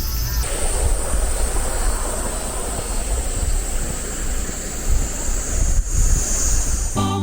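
Cicadas singing in a steady high-pitched drone, with wind buffeting the microphone underneath.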